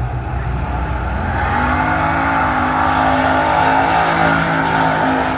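Drag-racing truck engine at full throttle, getting louder from about a second in and loudest near the end.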